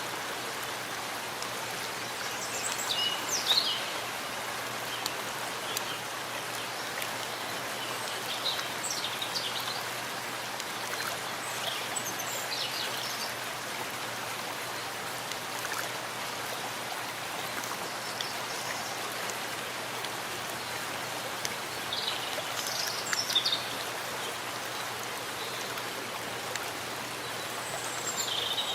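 Steady rain falling in a forest, an even hiss of drops, with short high bird chirps a few times (about 3, 9, 13 and 23 seconds in).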